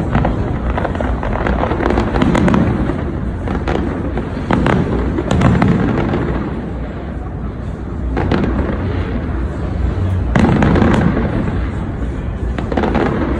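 Fireworks display: a continuous barrage of bangs and crackling, with heavier booming bursts every second or two.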